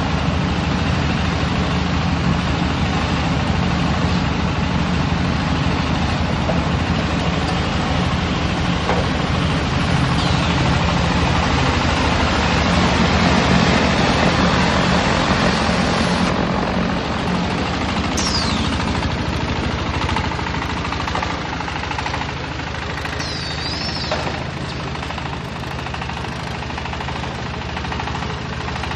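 Silage baler-wrapper machine running: a steady, loud machinery drone with a constant low engine hum. There are two brief high squeals, one about 18 seconds in and one about 24 seconds in.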